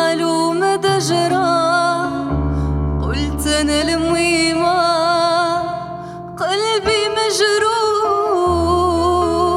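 A woman singing long, wavering held notes and slides in an Arabic-style melody over sustained accompaniment chords that change every few seconds.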